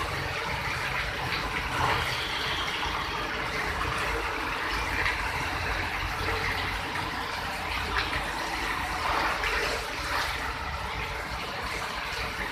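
Steady rain: an even, noisy hiss with a low rumble underneath.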